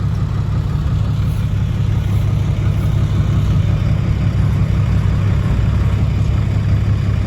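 Isuzu Rocky dump truck's diesel engine running with a steady low drone, slightly louder after a couple of seconds, while the truck is bogged in mud.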